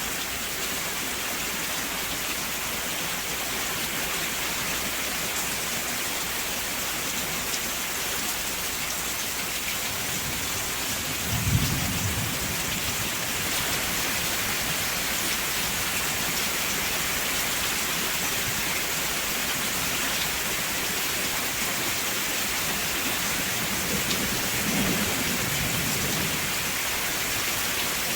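Steady rain falling, with two short low rumbles of thunder: a sharper one about twelve seconds in and a fainter one near the end.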